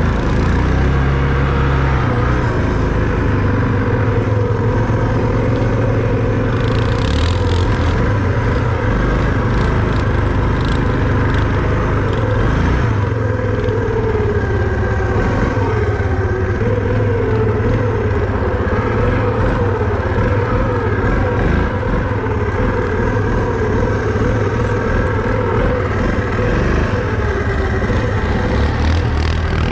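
A motor vehicle's engine running steadily and continuously, its pitch wavering gently up and down as the throttle changes.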